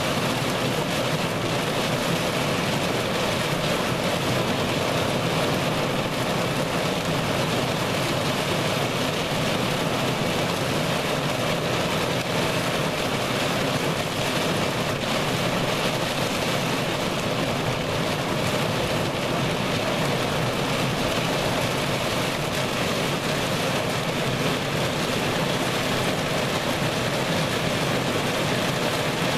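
Heavy, wind-driven rain beating on a vehicle's roof and windows, heard from inside the vehicle as a steady, unbroken noise.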